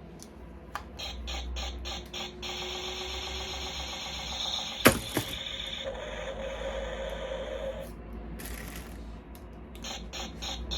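Plastic toy gun being worked: rapid clicking and ratcheting, with a steady buzzing tone in the middle and one sharp, loud snap about halfway through.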